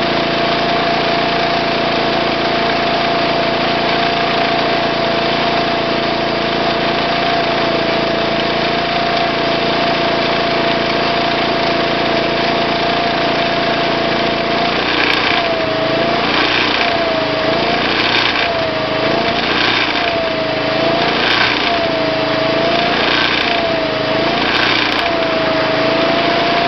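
Onan MicroLite 2800 generator running steadily. About halfway through, its tone starts dipping in a regular rhythm, about once every second and a half, with a short hiss at each dip.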